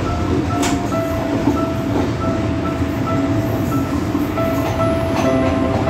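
Passenger train running on the rails, heard from inside the carriage: a steady rumble with a few wheel clacks. Faint background music plays over it.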